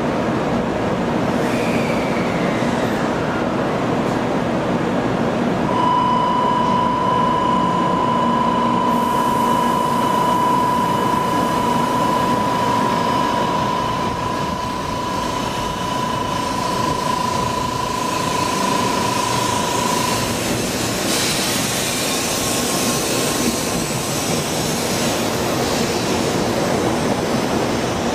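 N700 series Shinkansen electric train starting off from a station platform, with a steady running hum. A single steady tone sounds for about fourteen seconds in the middle. From about two-thirds of the way in, the running noise grows as the train gathers speed past the platform.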